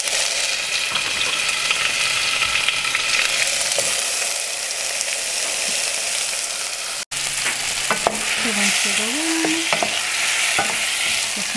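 Diced fresh tomatoes sizzling in hot olive oil in a pot, a steady hiss. It cuts out for an instant about seven seconds in, then the sizzling goes on with a wooden spoon clicking and scraping against the pot as the tomatoes are stirred.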